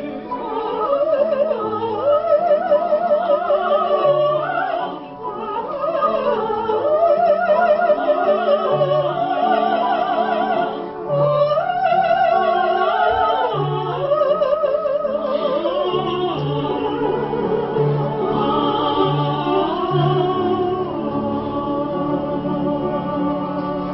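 Classical operatic singing with a wide vibrato over a steady low accompaniment, with held notes that rise and fall between phrases.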